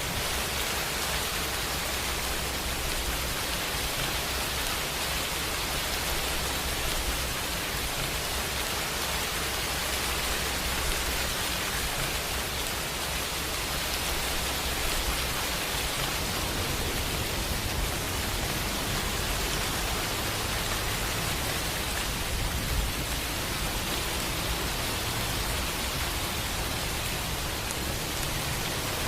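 Steady heavy rain, an even hiss of falling rain with no single drops or thunder standing out.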